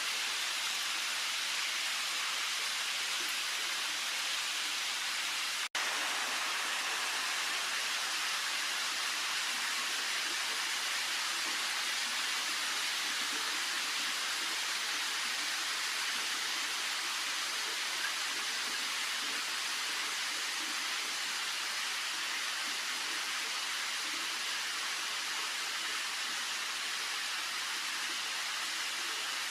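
Heavy rain falling steadily, a dense, even hiss, with a split-second dropout about six seconds in.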